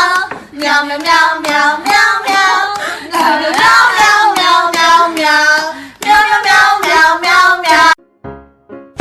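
A high, child-like singing voice in short repeated syllables, stopping abruptly near the end, where a brief, quieter and different sound follows.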